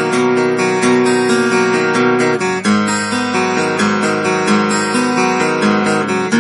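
Two six-string acoustic guitars strummed together, one strung with high strings and one with low, so that together they sound like a 12-string guitar. The chord changes about two and a half seconds in.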